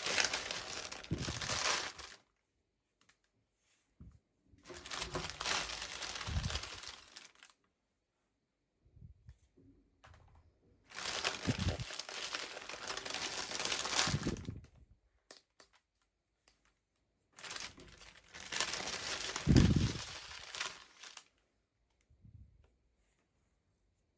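Plastic toy packaging crinkling and tearing as it is opened by hand, in four bouts of a few seconds each with silent pauses between.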